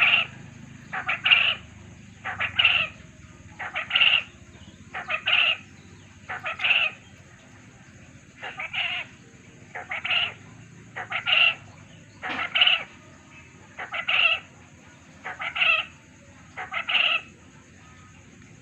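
Quail calling: a short phrase of a few quick notes, repeated about every second and a half, over a dozen times. It is a lure call meant to make other quail answer.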